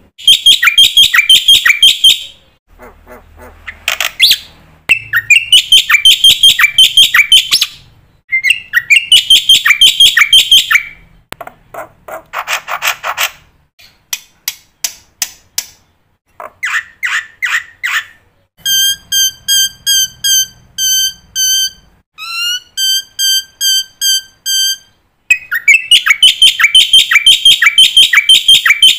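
Black-winged starling (jalak putih) singing a varied song laced with mimicked phrases of other birds. Loud, rapid chattering phrases come in short bursts. About two-thirds in, a run of clear, evenly repeated whistled notes takes over, and the chatter returns near the end.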